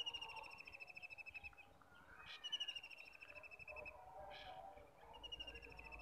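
A bird calling: three faint high trills, each about a second and a half long and dropping slightly in pitch, spaced about two and a half seconds apart.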